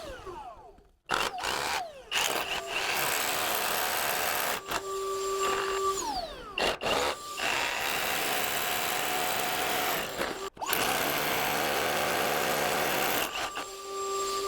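Handheld power tool running in three long stretches, with short breaks in which its motor whines down in falling pitch.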